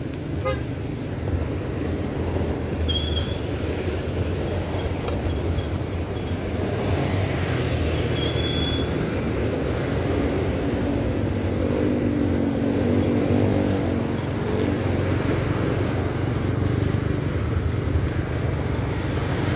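Road traffic passing close by, over a steady low rumble, as heard from a bicycle riding along the road. A pitched engine drone rises and fades about eleven to fifteen seconds in, and two short high squeaks sound about three and eight seconds in.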